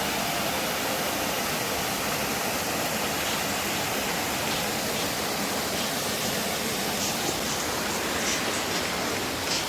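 Small creek waterfall pouring with a steady, even rush of water, with a few faint high ticks near the end.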